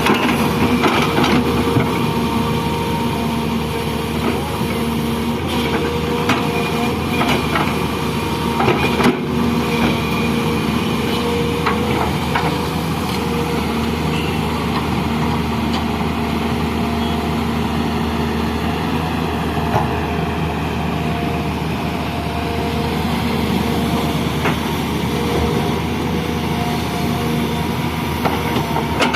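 Heavy machinery engine running steadily, with scattered short knocks and clanks.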